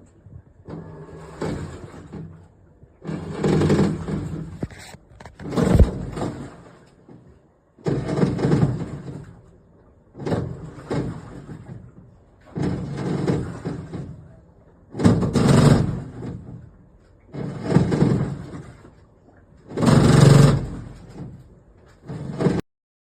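Top-loading washing machine agitating a wash load: water swishes in surges about every two seconds as the pulsator drives it one way and then the other.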